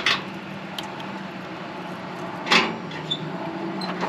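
Two sharp metal clicks, about two and a half seconds apart, from handling the controls of a lit Coleman liquid-fuel camp stove, over a steady low hum.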